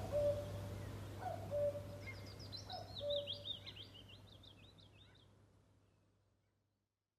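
Birds calling: a short low call repeats about every one and a half seconds while a higher twittering song runs underneath, all fading out to silence.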